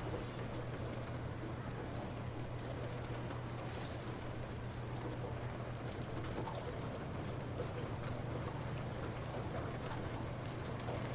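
Light rain falling steadily, with scattered faint drips, over a steady low hum.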